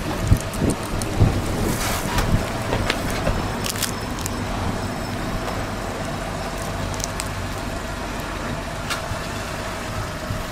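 Car engine idling close by, with scattered sharp crackles in the first few seconds from a large Chupa Chups lollipop and its foil wrapper being crushed and handled.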